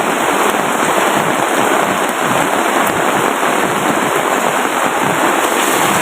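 Steady rushing water noise, dense and unbroken.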